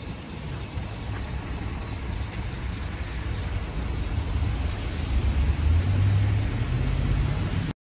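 Road traffic on a wet, snow-covered street: a motor vehicle's engine and tyre noise, with the low rumble building to its loudest about six seconds in. The sound cuts off abruptly at the end.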